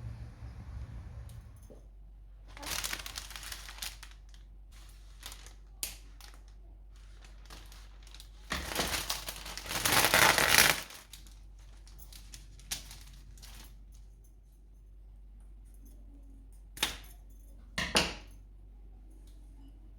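Household handling sounds: rustling and crinkling in a few stretches, the longest and loudest about halfway through, with scattered clicks and two sharper knocks near the end.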